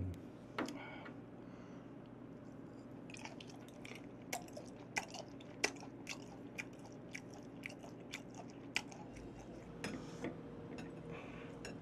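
A person chewing raw beef: faint, scattered wet mouth clicks and smacks.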